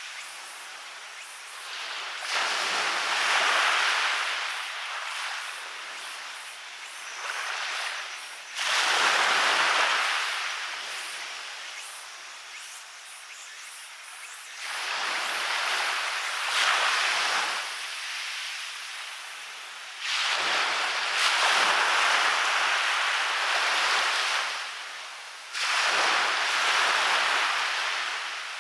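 Waves breaking on a beach and washing up the shore, a fresh surge about every six seconds, five in all, each starting suddenly and fading away.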